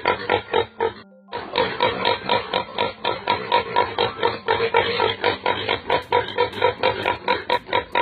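An animal calling in a fast run of short repeated grunting pulses, about four to five a second, with a brief break about a second in.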